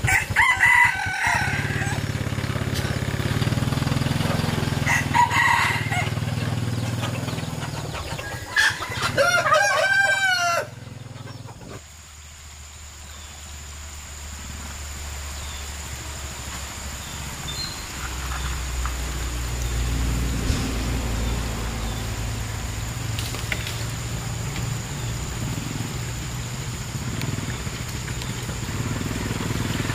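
Rooster crowing three times, near the start, about five seconds in, and a longer wavering crow about nine to ten seconds in, over the low steady rumble of a running motorcycle engine, which drops away suddenly about eleven seconds in and picks up again later.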